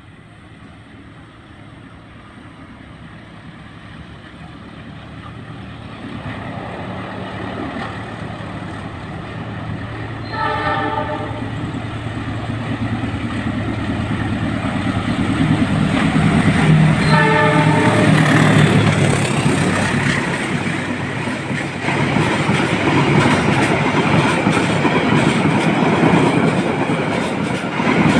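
Diesel locomotive hauling a stainless-steel passenger train approaches, its engine drone growing steadily louder, and sounds two short horn blasts, about ten seconds in and again about seven seconds later. The carriages then pass close by with a loud rumble of wheels on the rails.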